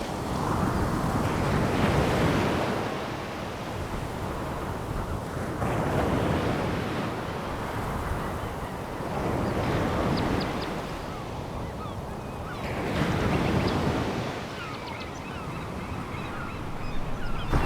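Sea waves breaking and washing up a pebble beach, swelling and falling back about every four seconds, with a faint rattle of stones in the wash.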